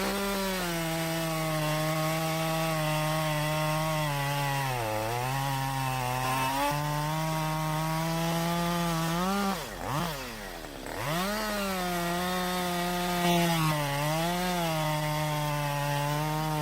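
Jonsered 2252 two-stroke chainsaw running at high revs through a thick log. Its pitch sags briefly under load twice, and about halfway through the engine drops off throttle and revs back up.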